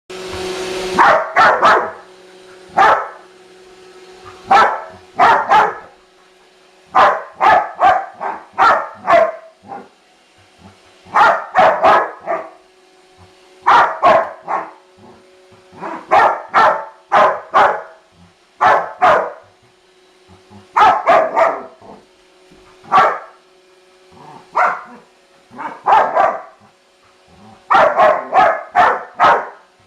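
Dog barking repeatedly in short clusters of two to five barks at a Roomba robot vacuum, over the vacuum's faint steady hum.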